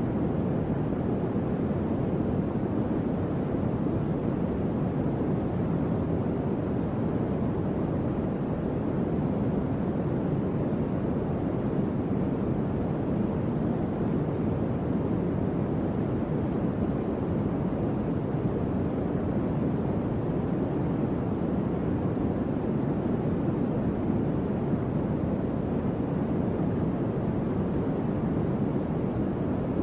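Electric fan running steadily: an even, low-pitched whooshing hum of moving air with no changes.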